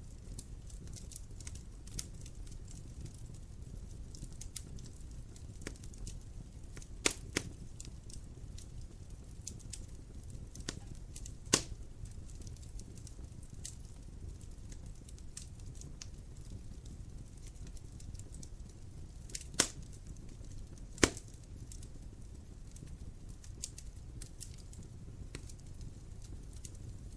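Wood fire crackling: a steady low rumble under scattered small snaps, with a few louder pops several seconds apart.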